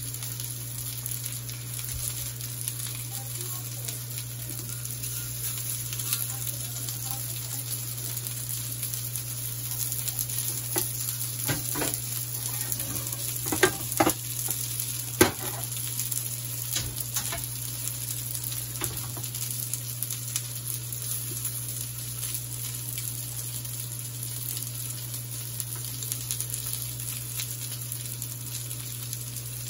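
Chicken kabab patties shallow-frying in hot oil, a steady sizzle, over a low steady hum. About halfway through, a handful of sharp clicks of a utensil against the frying pan as the patties are turned.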